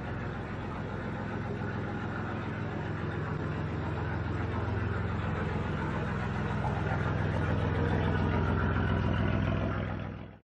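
A vehicle engine running steadily, growing gradually louder, then cutting off abruptly just before the end.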